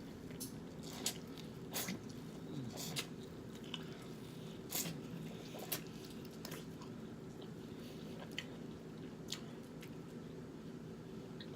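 Close-miked eating of a seafood boil in sauce: wet chewing, smacking and biting, with irregular sharp clicks that come more often in the first six seconds.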